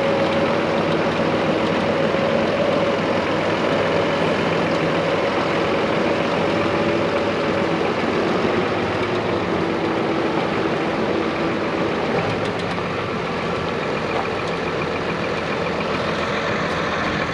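Case IH Magnum 180 tractor's diesel engine running steadily at idle, with a held whine over the engine note; the sound drops a little in level about twelve seconds in.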